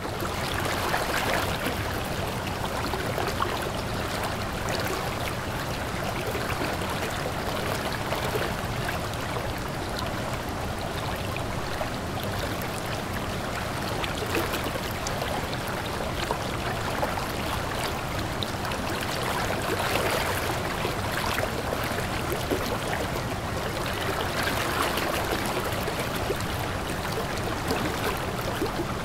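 River stream running and gurgling over rocks: a steady rush of water.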